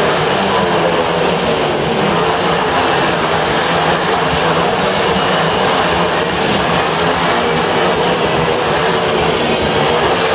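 Motorcycle engine running continuously at a steady high level, its pitch wavering slightly, in a circus motorbike cage act.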